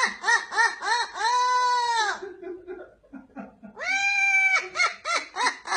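An animal calling loudly in a nasal, many-toned voice: a long drawn call, then a quick run of short calls about four a second. The pattern comes twice, the second starting nearly four seconds in.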